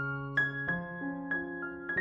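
Gentle solo piano music: single notes struck one after another, each ringing and fading.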